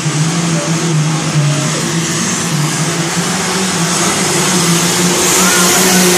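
Pro stock pulling tractor's turbocharged diesel engine running loud and steady, growing slightly louder near the end.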